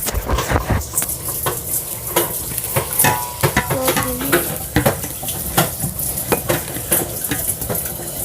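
Homemade slime being stirred in a container: irregular wet, sticky clicks and crackles.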